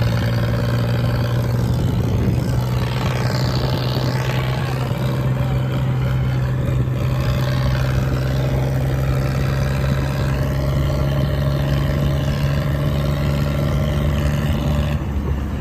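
Tractor's diesel engine running loudly at a steady speed, its pitch held constant, with a brief change in the sound near the end.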